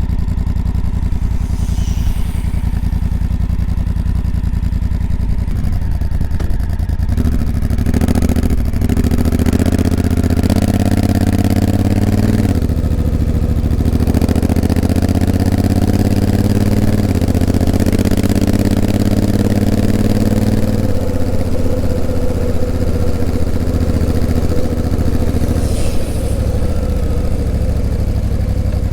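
Honda CRF1000L Africa Twin's parallel-twin engine running under load on a climb, its pitch rising and then stepping up and down several times as the revs change. Light wind hiss over it.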